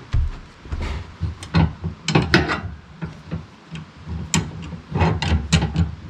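Hand crank on a Woodland Mills sawmill being turned, its gearing clicking and knocking irregularly.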